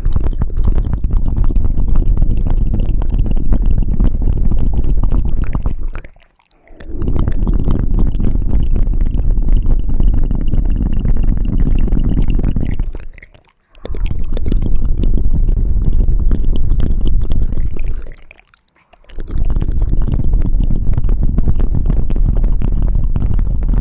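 Close-miked ASMR ear-cleaning sounds: dense crackling and scraping with a deep rumble, in four long spells broken by three short pauses.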